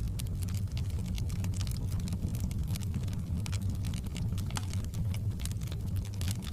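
Fireplace fire burning: a steady low rumble with scattered sharp crackles and pops.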